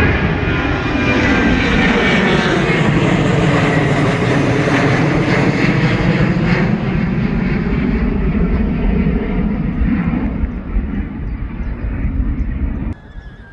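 Airliner's engines roaring loudly as the plane passes close by, the pitch of the roar sweeping as it goes. The roar fades over the last few seconds and cuts off sharply just before the end.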